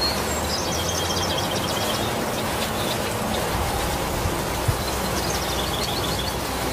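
Steady heavy rain falling on broad leaves. A bird gives a quick run of high chirps twice, near the start and again about five seconds in, and a brief knock sounds just before the second run.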